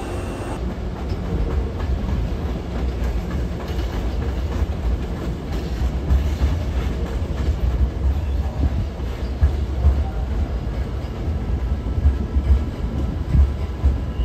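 Hankyu electric train running on the rails: a heavy low rumble with irregular clacks of the wheels.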